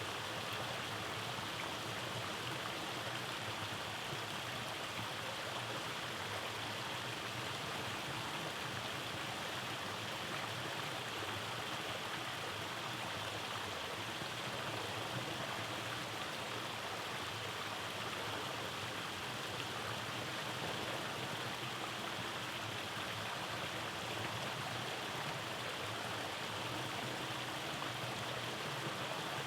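Rainforest stream flowing over small cascades: a steady, even rush of water.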